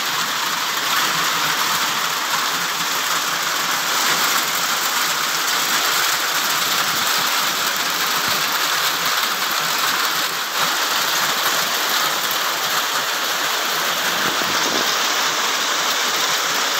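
A heavy downpour falling steadily: an even hiss of drops on a wet terrace.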